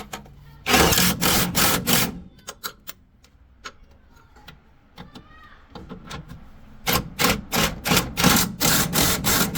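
Workshop tool work on a truck gearbox: two bursts of rapid, evenly repeated sharp knocks, the first about a second and a half long, the second nearly three seconds long near the end, with a few scattered clicks between.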